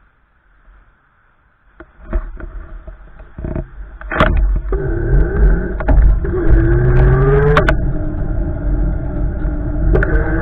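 Strong wind gusts buffeting the microphone, a heavy low rumble that sets in about two seconds in and grows louder. Over it runs a droning tone that slides up and down in pitch, with a few sharp knocks.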